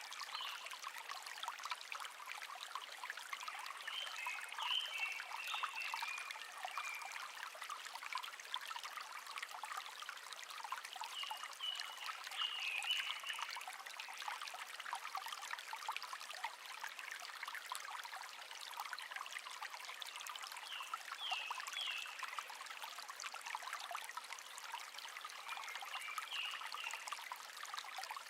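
Shallow stream trickling and babbling steadily over stones, with a small wild bird chirping in short bursts every few seconds.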